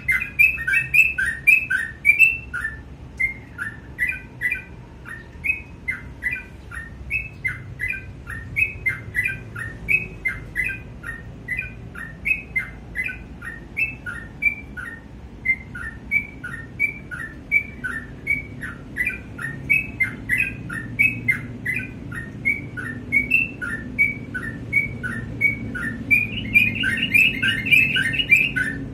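Yellow-vented bulbul (trucukan) singing steadily: an unbroken run of short chirping notes, several a second, crowding into a quicker, denser run near the end.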